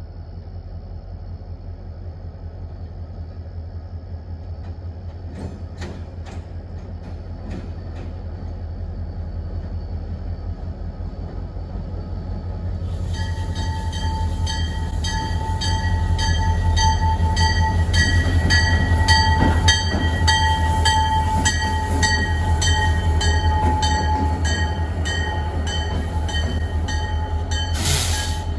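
Diesel freight locomotive's engine rumbling as it moves, growing louder as it comes closer. From about halfway its bell rings steadily, about two strokes a second, and a short loud burst of noise comes near the end.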